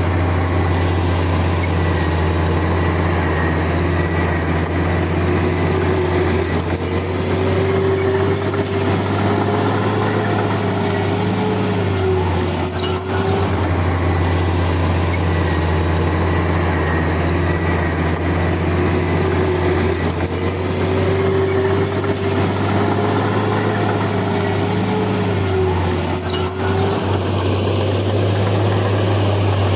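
Komatsu bulldozer's diesel engine running steadily with a deep hum. A higher whine comes up and holds for several seconds, twice: once near the first third and again past the middle.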